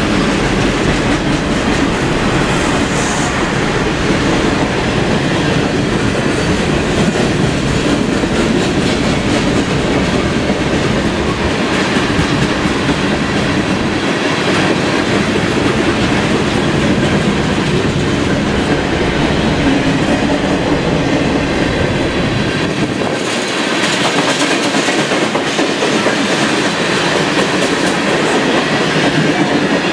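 Freight train cars rolling past: a steady rumble and clatter of steel wheels on the rails. A few seconds near the end it turns hissier and less boomy.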